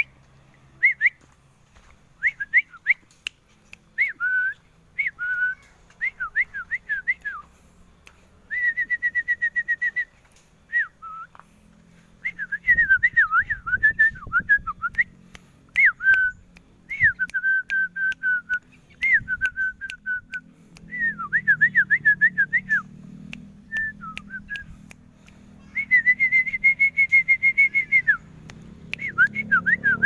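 A bird singing in loud whistled phrases: quick up-and-down sweeps, fast trills of repeated notes and a few held notes, with short pauses between phrases.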